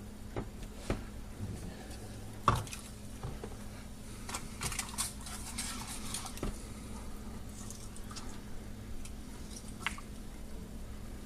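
Scattered light clicks and clinks of objects being handled, with one louder knock about two and a half seconds in, over a steady low hum.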